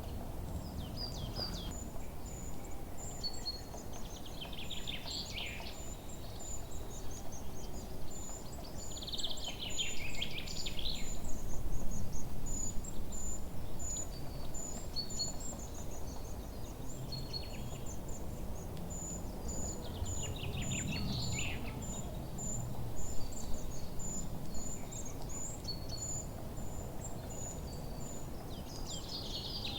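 Forest birds singing: four louder bursts of song over a steady, quick run of short, high chirps, with a low rumble of background noise underneath.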